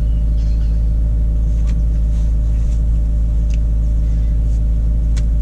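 Steady low drone of a car's engine and road noise inside the cabin of a moving car, with a few faint clicks.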